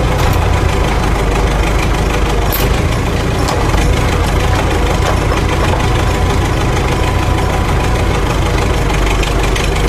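A road roller's engine running steadily and loudly, strongest in the low end and unchanging throughout.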